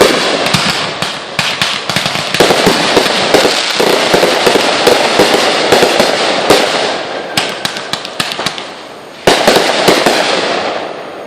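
Fireworks going off: a dense run of crackling pops and bangs, with a fresh loud burst about nine seconds in that then dies away.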